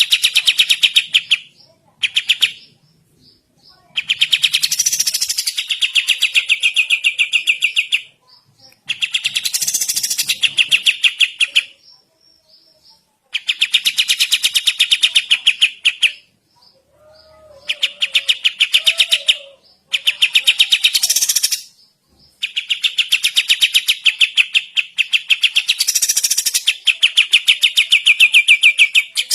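Kapas tembak bird singing vigorously: loud, very fast chattering trills in bursts of one to four seconds, with short pauses between them.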